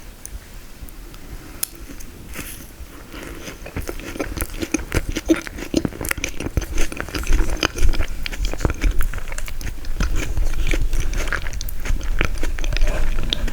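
Close-miked biting and chewing of frozen tiramisu: dense crunchy crackles and wet mouth clicks, getting louder and busier a few seconds in.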